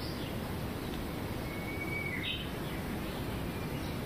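Forest ambience: a steady hiss with a single faint bird call about halfway through, a thin whistle followed by a short chirp.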